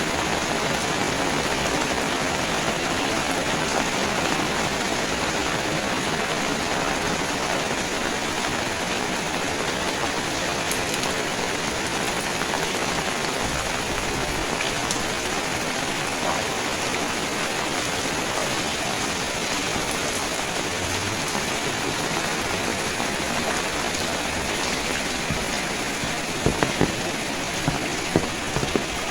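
Steady rain falling, an even hiss of drops on surfaces. A few sharp taps stand out near the end.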